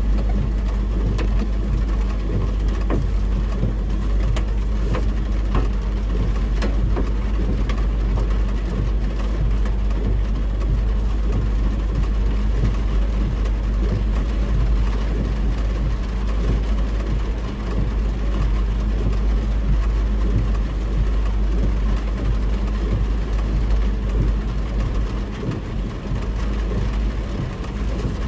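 Steady car-cabin noise while driving: a deep low rumble of road and engine under an even hiss, heard through heavy rain, with a few faint ticks about four to seven seconds in.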